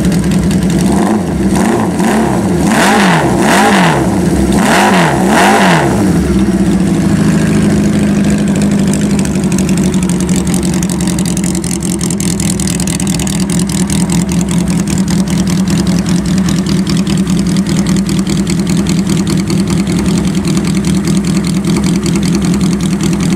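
1974 Honda CB550's air-cooled inline-four running through homemade open drag pipes: several quick throttle blips over the first six seconds, then settling into a steady idle.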